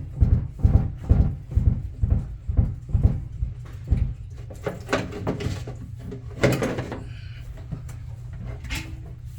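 A run of dull knocks or thumps, about two a second for roughly four seconds, then a single louder knock a couple of seconds later, over a steady low hum.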